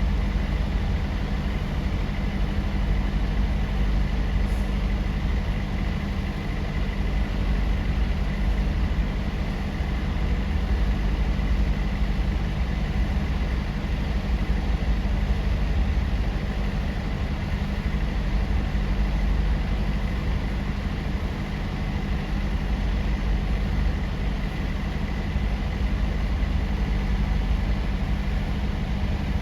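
Steady low drone of a large engine running at idle, unchanging throughout, with a faint high whine.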